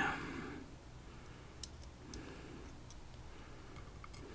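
A few faint, scattered light ticks of small lock pins being handled and set down as a padlock is disassembled.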